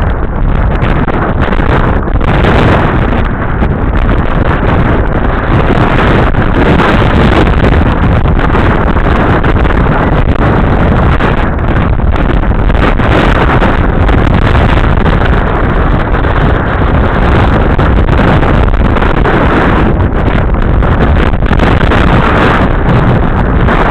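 Loud, steady rushing and buffeting of wind on the microphone, with no clear engine tone.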